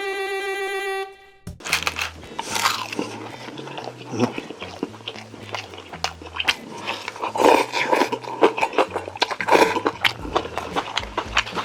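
A held note of jazzy intro music ends about a second in. Then come close-miked eating sounds, biting and crunchy chewing with small clicks, over soft background music with a bass line.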